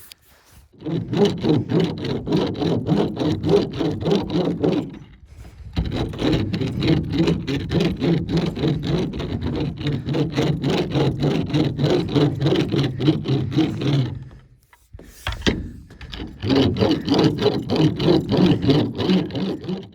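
Hand tape roller being pushed back and forth over taped seams in subfloor sheathing, pressing the tape down: a fast, even rubbing and scraping on wood, stopping briefly about 5 and 15 seconds in.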